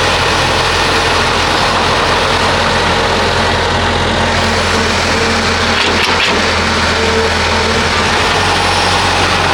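Heavy diesel engine of construction machinery running steadily at a low, even speed, with a short knock about six seconds in.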